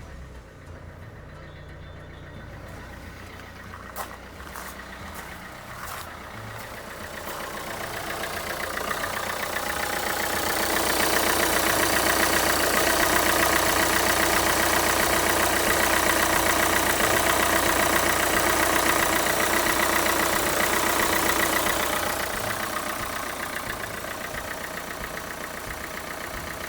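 Renault Kangoo 2's 1.5 dCi four-cylinder diesel idling steadily, with its alternator's overrunning clutch pulley newly replaced. The sound grows louder for about ten seconds in the middle, then eases off again.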